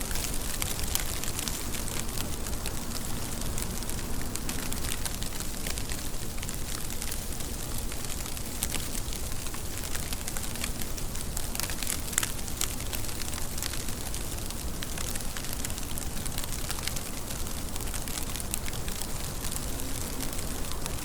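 Steady rainfall, an even hiss with many small drops ticking sharply on a surface.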